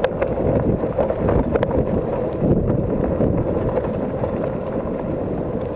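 Wind buffeting the microphone of a riding cyclist: a steady, heavy rumble, with a few short clicks from the bike near the start and about a second and a half in.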